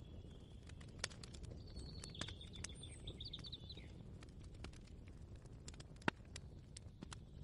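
Faint kitchen ambience: a low rumble under scattered light clicks and knocks, with one sharper knock about six seconds in. Bird chirps come in a series between about one and a half and four seconds in.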